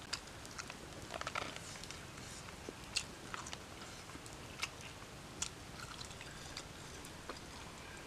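A man chewing a mouthful of pork and rice: soft, irregular wet clicks and smacks of the mouth over a faint background.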